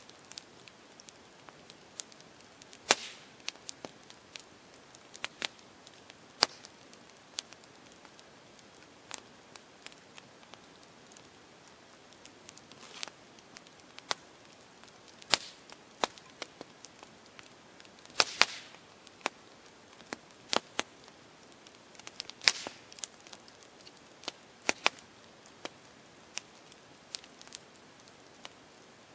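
Campfire crackling: irregular sharp pops and snaps of burning wood over a faint steady hiss, with small clusters of crackles now and then.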